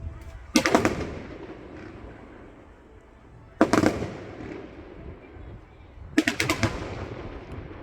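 Fireworks exploding in the air: three bursts about three seconds apart, each a quick string of cracking bangs with an echoing tail.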